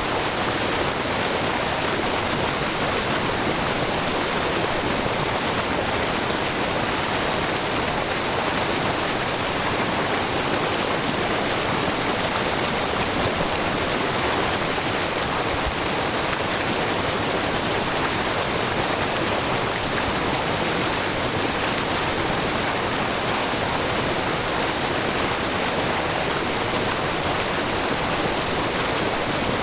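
Water from a wide, low waterfall falling in many thin threads over a rock face, together with a babbling brook. It makes a steady, unbroken rush.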